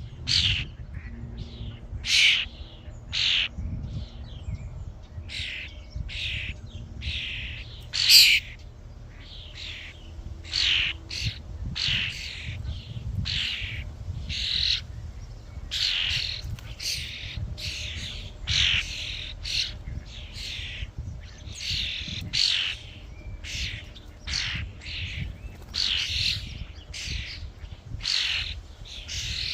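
A flock of common starlings calling at a bird feeder: a steady run of short, rasping calls, one or two a second, over a low rumble.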